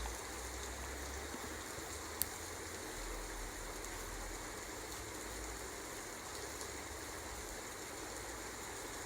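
Steady rain falling, an even hiss of water. A single sharp click comes a little over two seconds in.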